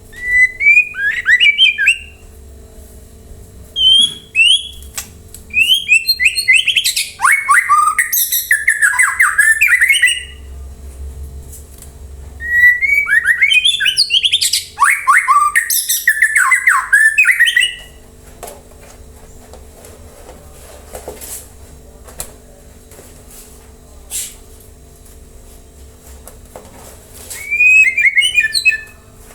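White-rumped shama (murai batu) singing in loud bursts of varied whistles and harsh chattering notes, with a long pause in the second half. This is the kind of song played as a bait call to set caged birds singing along.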